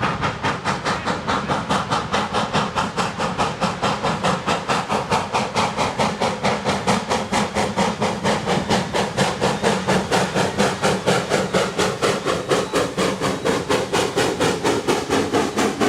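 Steam locomotive working hard, its exhaust a rapid, even run of chuffs that holds a steady pace.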